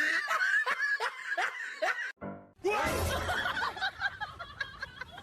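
A person laughing in short repeated bursts of giggling. The sound breaks off abruptly about two seconds in and resumes after a brief gap.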